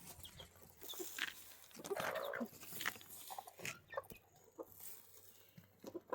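A short animal call about two seconds in, among scattered light clicks and knocks.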